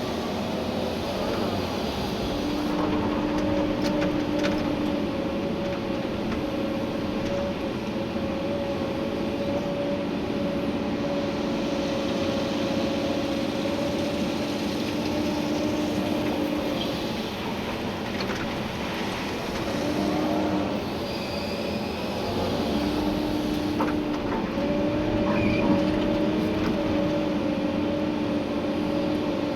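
Komatsu PC290-11 excavator's engine and hydraulics running under digging load, heard from inside the cab. A steady whine drops out and returns several times, with occasional knocks.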